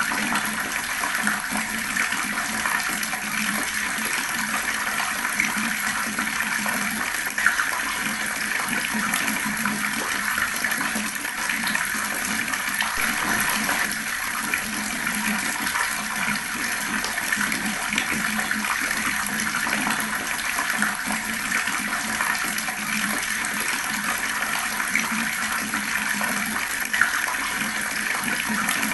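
Fast-flowing water running steadily, an even rush of splashing with two brief louder spikes.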